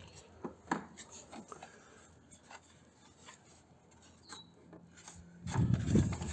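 Scattered faint clicks and scrapes of hand tools and fingers working a small fastener and plastic fairing parts on a motorcycle, most of them in the first couple of seconds.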